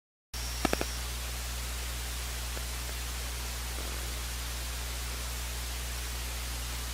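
Steady hiss and low electrical hum of an open broadcast audio feed, cutting in abruptly out of digital silence, with a few brief clicks just after it starts.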